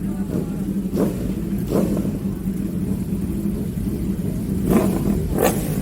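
Superbike engine running steadily, with short revving surges about one second in, near two seconds, and twice near the end.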